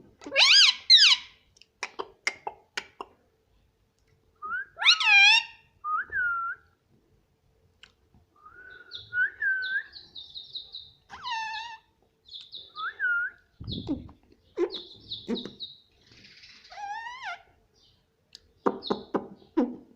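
Indian ringneck parrot calling: sharp squawks that bend in pitch, then strings of short high chirping whistles and chatter, mixed with clicks.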